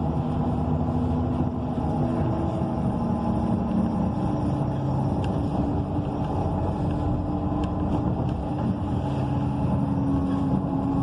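ENC EZ Rider II transit bus under way, heard from inside the cabin: its Cummins Westport ISL G natural-gas engine and Allison B300R automatic transmission drone steadily over road rumble. The engine's pitch steps a few times.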